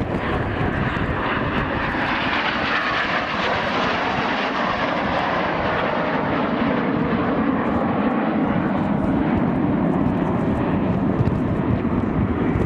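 Fixed-wing aircraft engine noise as a display aircraft flies past, a steady roar whose pitch falls as it goes by.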